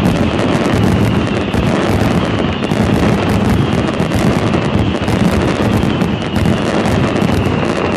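Fireworks finale barrage: a continuous, dense run of aerial shell bursts and crackling, so many reports per second that they merge into one loud, steady roar.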